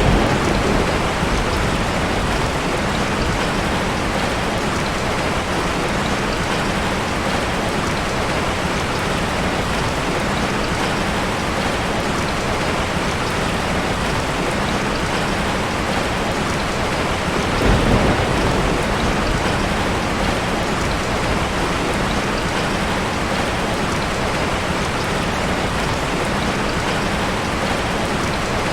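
Steady rain falling, an even hiss. There is a brief low swell right at the start and another about eighteen seconds in.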